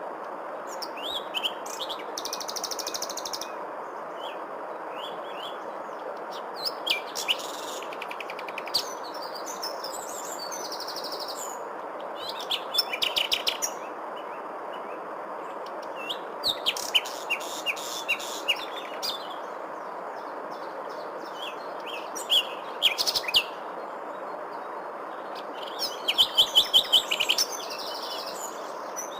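Songbirds chirping and trilling in short repeated phrases, with a fast run of loud chirps near the end, over a steady even rushing noise.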